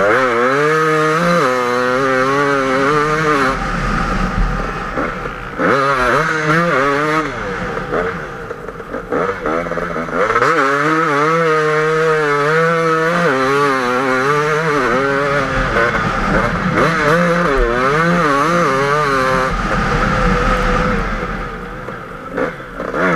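KTM 250 EXC two-stroke enduro engine revving hard while being ridden through deep sand, its pitch repeatedly climbing and falling with the throttle and easing off briefly a few times.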